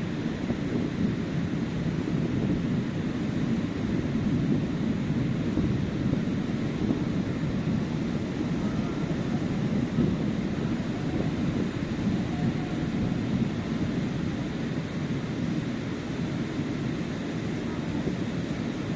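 Ocean surf breaking on a beach: a steady, low rumble of waves with no single crash standing out.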